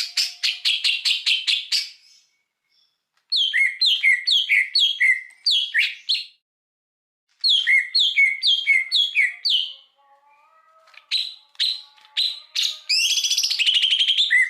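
Songbird singing in bursts of rapidly repeated sharp, chattering notes, each burst two to three seconds long with about a second's pause between. Near the end it goes into a dense, rough trill. It is a recorded masteran song of the kind played to train captive songbirds.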